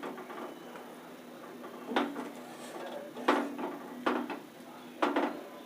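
Metal ladle stirring gravy in a kadai, knocking against the pan about four times, each knock followed by a short metallic ring.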